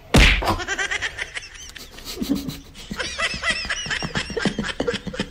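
A loud thump just after the start, then a person laughing in quick, high-pitched bursts that come thickest in the second half.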